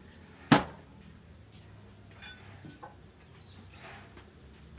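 A single sharp knock about half a second in, then faint scattered handling sounds.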